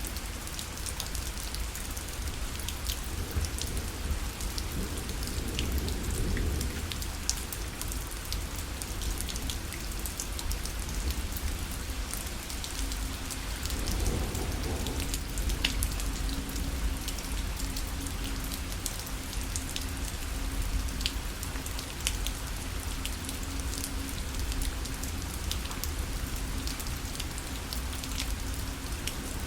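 Steady rain falling on a parasol, with many individual drops ticking sharply on the fabric over a low rumble. A faint low steady hum comes in about halfway through.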